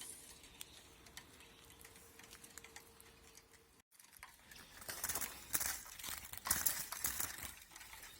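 Handling noise: bursts of rustling and quick light clicks in the second half, after a faint steady hum in the first half.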